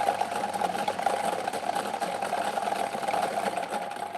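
Electric lottery ball machine running, its numbered balls rattling steadily as they are mixed, then dying away near the end.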